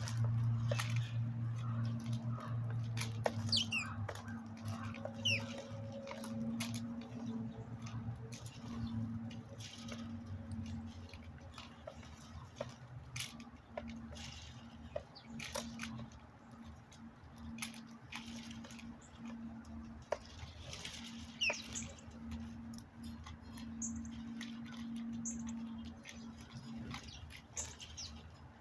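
Small birds giving brief high chirps, a few around three to five seconds in and again around twenty-one seconds. Scattered light clicks and ticks and a steady low hum run underneath.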